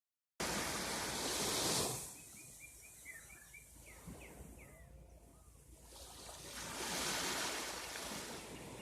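Waves washing in twice, each swelling and falling away. In the lull between them a bird gives a quick run of short chirps followed by a few falling notes.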